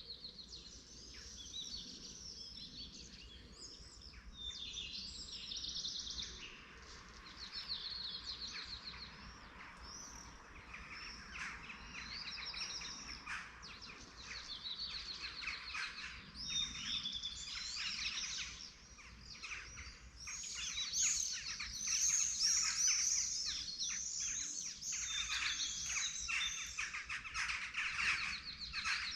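A dawn chorus of many small birds singing at once: overlapping high chirps, trills and warbles, busiest and loudest in the second half.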